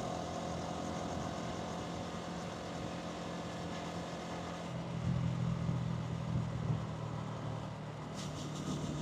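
Hansom Bike Venett 125cc motorcycle engine running steadily at low revs. Its note grows louder about five seconds in, with traffic and road noise around it.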